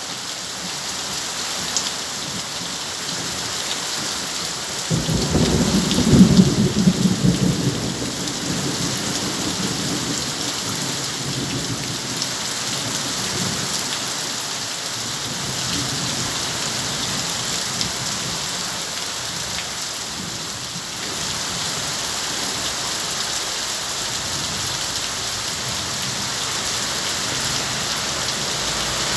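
Heavy rain falling steadily, with a roll of thunder rumbling for about three seconds starting about five seconds in.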